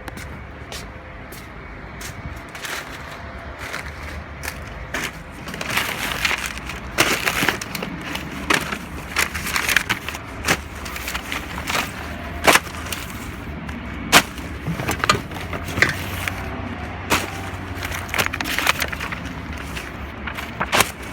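Bundles of paper and cardboard being unloaded from a truck and dropped onto a pile: irregular thuds, slaps and rustles, coming thicker from about six seconds in, over a steady low hum.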